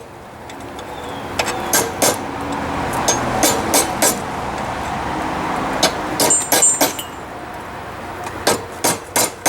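Hand hammer blows on a hot railroad spike at the anvil, cutting grooves to set off the ears, struck in short groups of two to five with a brief metallic ring on some. A steady rushing noise runs underneath, swelling and easing.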